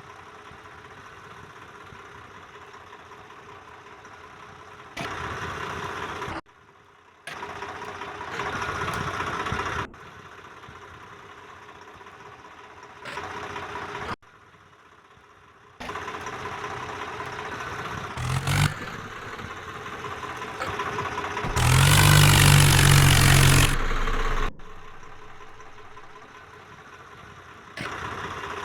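Tractor engine running and revving in a series of short, abruptly cut segments. It is loudest and deepest about three-quarters of the way through.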